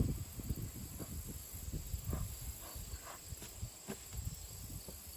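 Scattered knocks and clicks with irregular low rumbling, over a steady high chirring of insects.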